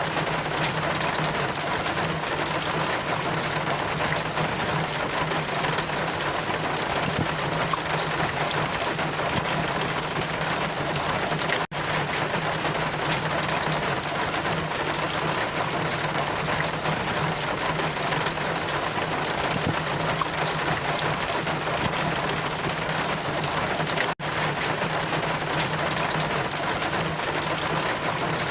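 Steady heavy rain with wind, a dense even hiss over a low steady hum, briefly cutting out twice about twelve seconds apart.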